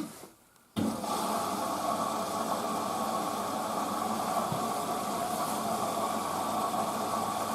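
Hoover washing machine starting its cycle: about a second in, water suddenly begins rushing in through the inlet valve with a steady hiss that holds level as the machine fills.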